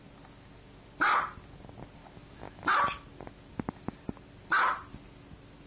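Small white long-haired dog barking, three single sharp barks evenly spaced about every second and three quarters. A few faint clicks fall between the second and third barks.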